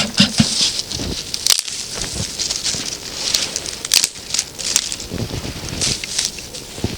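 Frost- and snow-covered twigs and branches being gathered and broken by hand: irregular rustling with sharp snaps and cracks.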